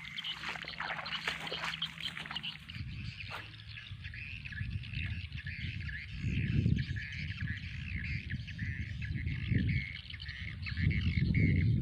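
Birds chirping continuously in the background, with a low rumble that swells about six seconds in and again near the end.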